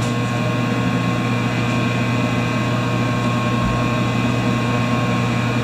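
Stick welder switched on and humming steadily, a low electrical hum with a rough buzz and some higher steady tones, no arc struck yet.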